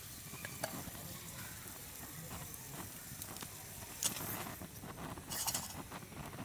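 Campfire crackling, with scattered short pops and two brief bursts of hissing about four and five and a half seconds in.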